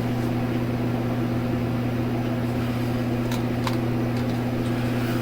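Steady low electrical hum with a couple of faint clicks about three and a half seconds in.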